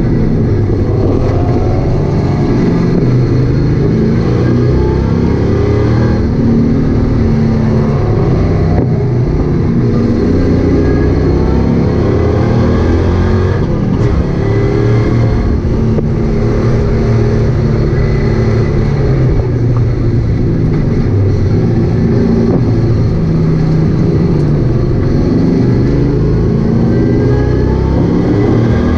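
1965 Chevelle's engine heard from inside the cabin, running hard and revving up repeatedly as the car accelerates and shifts, with road and wind noise underneath.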